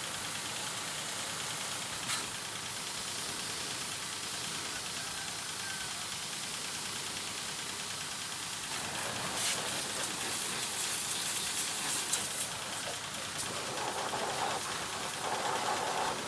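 Steady hiss of water spraying onto a motorcycle. About nine seconds in it grows louder and more spattery.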